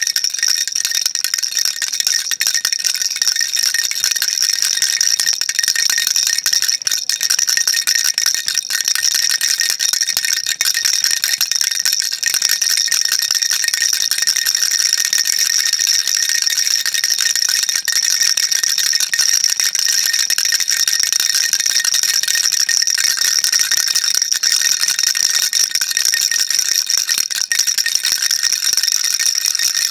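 Baby rattle shaken without a break: a dense, steady, high-pitched rattling with a faint ringing tone in it.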